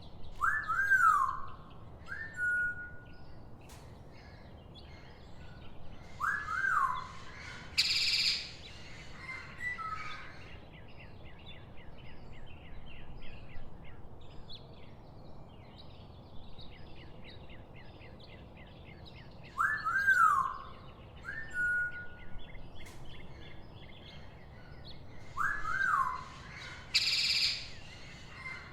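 Birds calling over a steady background hiss: clear whistles that swoop up and down, each followed by a short level whistle, coming back several times; two loud harsh screeches; and a fast chattering trill in the middle.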